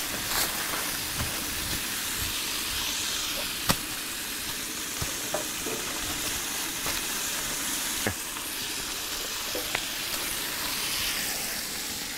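Canned venison and peppers sizzling steadily in a frying pan on a camp stove, with a few sharp knocks of a hatchet on wood.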